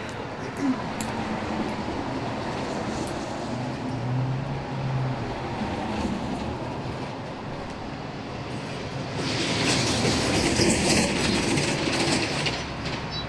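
Subway train running on its rails, a steady clattering rumble that grows louder and harsher, with a high hiss or squeal, for a few seconds near the end.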